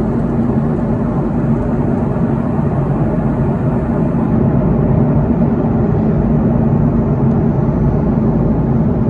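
Steady jet airliner cabin noise: the drone of the engines and airflow heard from inside the passenger cabin, with a low hum running through it.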